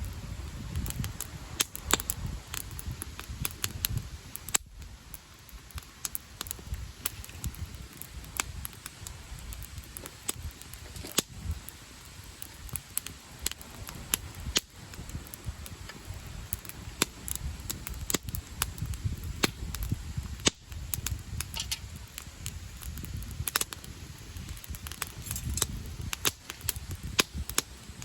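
Wood campfire crackling, with frequent sharp irregular pops over a low rumble.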